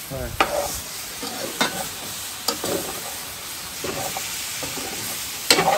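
Boucané (smoked pork) and tomato frying in oil in a pot, sizzling steadily while a spoon stirs them, with a few sharp knocks of the spoon against the pot.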